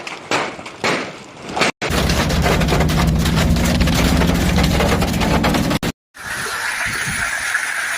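A quick run of knocks, then a motor vehicle's engine running steadily for about four seconds before cutting off abruptly, then a steady hiss.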